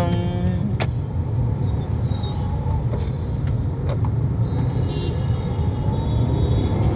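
A car running with a steady low rumble of engine and road noise, after a man's sung line ends about half a second in.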